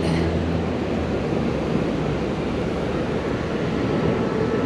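Steady rushing roar of water pouring over a river dam.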